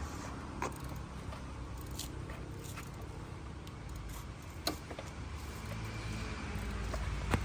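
Scattered metal clinks and scrapes of hand tools working on a motorcycle's exhaust fittings, over a steady low background rumble.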